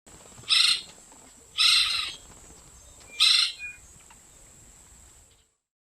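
Woodpecker calling: three harsh, rasping calls about a second and a half apart, with a faint shorter note after the third.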